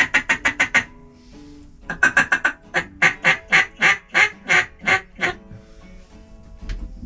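Duck call blown in a fast string of quacks that ends about a second in, then, after a short pause, a longer series of loud quacks that slows as it goes, over faint background music.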